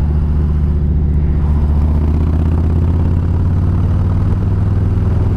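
Harley-Davidson motorcycle's V-twin engine running at a steady pace while riding, a low even engine note with little change.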